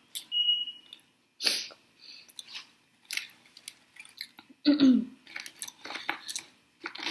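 Close-miked chewing and mouth sounds of someone eating: irregular wet crunches and clicks, with a short falling vocal sound about five seconds in.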